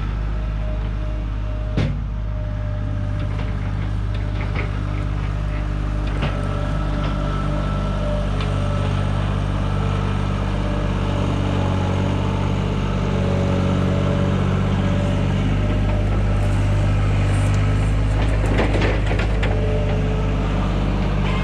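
Engine of heavy farm equipment running steadily, with a sharp knock about two seconds in, another around six seconds, and a clattering of metal near the end.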